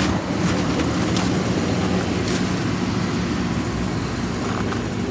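GMC Sierra pickup's 5.3-litre V8 idling steadily as it warms up after a cold start.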